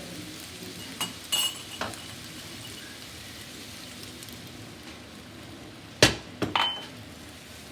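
Chicken and mushrooms frying in a pan with a steady low sizzle, a spoon clinking against the pan a few times about a second in. About six seconds in comes a loud metal clank, then two quicker clinks with a short ring.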